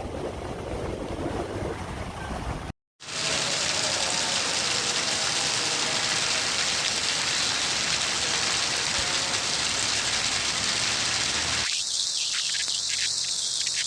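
A rough rumbling noise cuts off about three seconds in. A steady, loud hiss of heavy rain follows.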